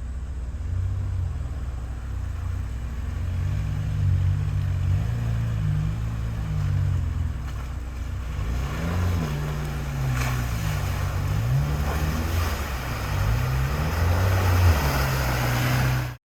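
Off-road vehicle engine revving up and down repeatedly under load, with a growing rush of tyre and terrain noise from about halfway through. It cuts off suddenly.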